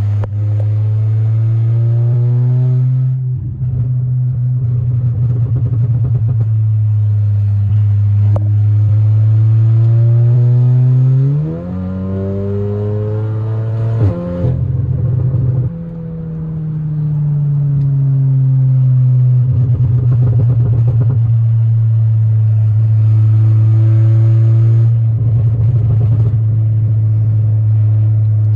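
Stage 3 tuned Volkswagen Golf R's turbocharged four-cylinder engine and exhaust, loud, pulling through the revs on the road. The pitch rises and falls as it accelerates and eases off. There are brief dips a few times and a steep climb in revs about halfway through.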